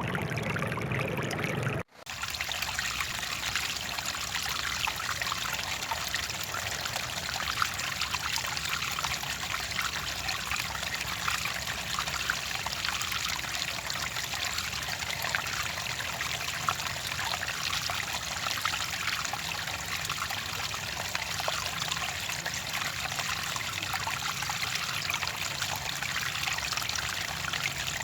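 Clear water trickling and splashing steadily, like a small stream, with a dense patter of small splashes. It comes in after a brief break about two seconds in; before the break the sound is lower and duller.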